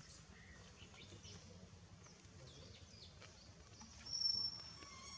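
Faint outdoor ambience with scattered small bird chirps. About four seconds in, a louder, high, steady whistled note lasts about half a second.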